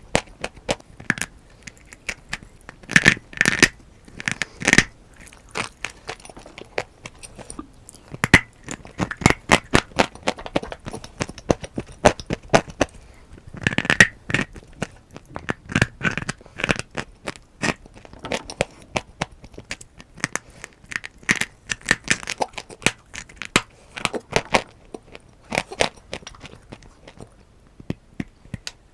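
Dry brown clay crunching and crackling in an irregular string of sharp cracks and crumbles, with louder clusters of snaps every few seconds.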